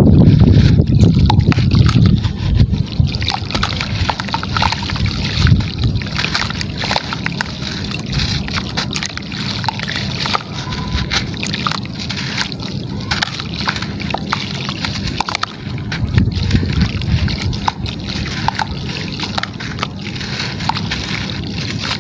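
Gritty material crumbling and splashing into water, with wet sloshing and a dense crackle of small clicks, loudest over the first two seconds.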